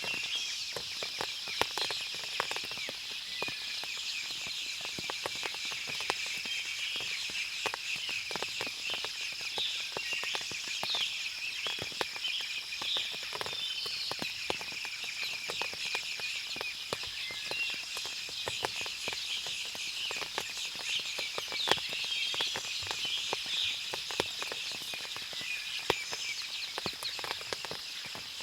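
Forest ambience after rain: many birds chirping and a steady high insect drone, with a constant patter of small clicks that fit water dripping from the trees.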